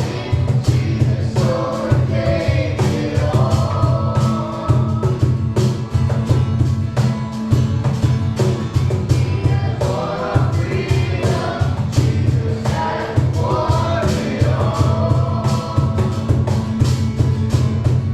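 Worship song performed live: voices singing together over a band with a steady beat.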